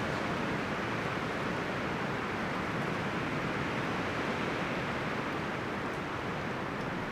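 Wind blowing through forest trees, the leaves and branches rustling in a steady rush.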